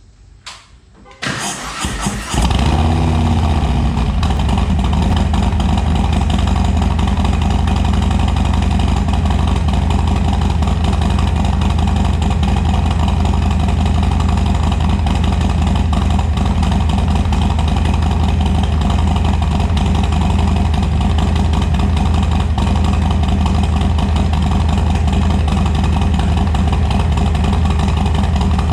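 Harley-Davidson Low Rider S Milwaukee-Eight 114 V-twin, breathing through a Bassani Road Rage 3 2-into-1 exhaust and running a Screamin' Eagle 462 cam, cranked on the starter and catching about two seconds in. It then idles steadily and loudly.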